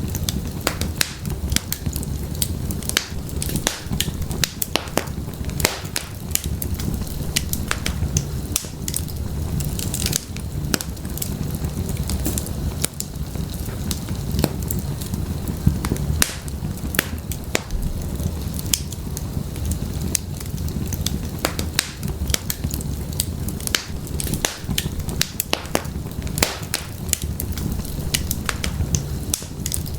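Wood fire crackling in a fireplace: many sharp, irregular pops and snaps over a steady low rumble of flame.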